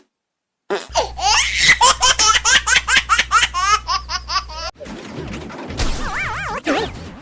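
A child's rapid, high-pitched laughter lasting about four seconds after a brief silence, then quieter sounds with a wavering tone near the end.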